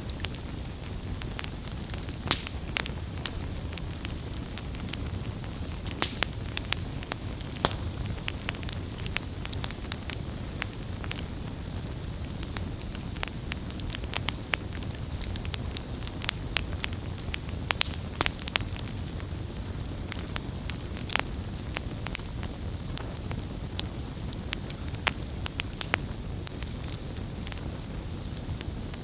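Wood campfire crackling: frequent irregular sharp pops and snaps over a steady low rumble of burning.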